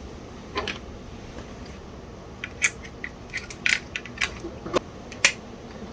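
Sharp little clicks and taps of hard parts being handled and fitted during the reassembly of a Commodore 1571 floppy disk drive. One click comes just after the start, then an irregular run of them from about halfway through, the loudest near the end.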